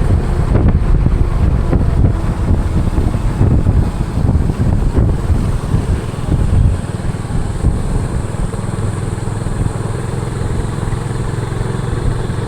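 Motorcycle engine running while riding, with a loud low rumble of wind and engine on the microphone, rougher at first and settling steadier about halfway through.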